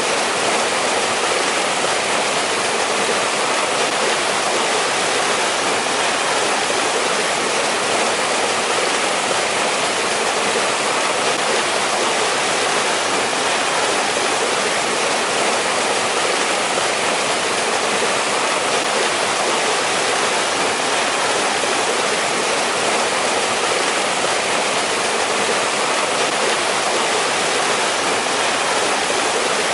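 Mountain stream flowing and splashing steadily over rocks, a constant rush of water with no breaks.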